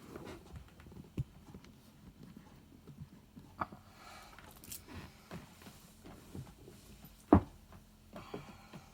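Scattered knocks and light thumps with some rustling, the loudest a sharp knock about seven seconds in.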